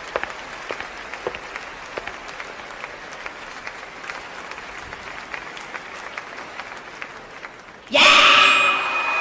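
Audience applause, the clapping thinning out over several seconds. About eight seconds in, a sudden, much louder sound with several held tones cuts in.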